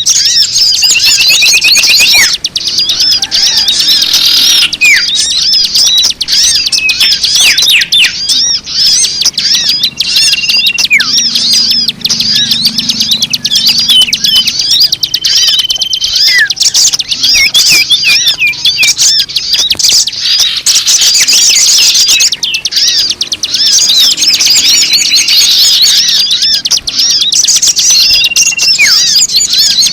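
Loud, dense chorus of many small birds chirping and trilling over one another, with a few longer held whistles that drop at their ends: a bird-lure recording (suara pemikat) meant to draw in all kinds of birds.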